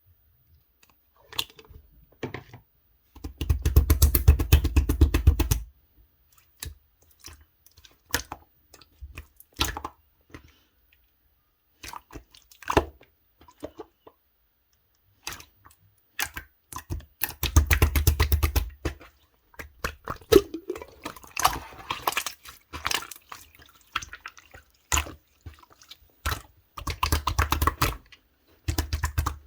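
Clear slime being squished and kneaded by hand, making wet, sticky popping clicks. There are three long runs of rapid pops, about three seconds in, in the middle and near the end, with scattered single pops between them.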